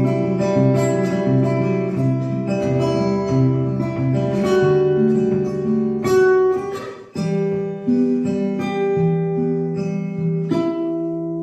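Solo acoustic guitar playing an instrumental tune: a bass line of repeated low notes under a plucked melody, with a short break about seven seconds in.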